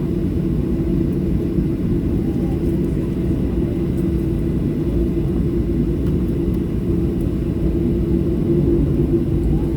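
Steady low rumble of a Boeing 737's engines running, heard from inside the passenger cabin, with an even hum in it and no change in level.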